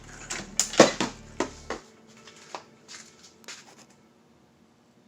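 Pieces of a freshly cracked geode being handled, with rock clicking and knocking against rock and the work surface. There is a cluster of sharp knocks in the first two seconds, the loudest just under a second in, then fainter clicks that die away after about four seconds.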